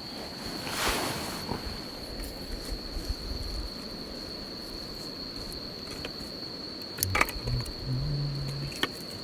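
An insect trills steadily at one high pitch, with a brief rush of noise about a second in. Near the end come a few sharp clicks and short, low cooing notes of a dove.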